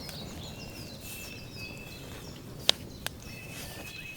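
Woodland birds singing, with many short high falling chirps and a thin held whistle. Two sharp clicks come about two and a half and three seconds in.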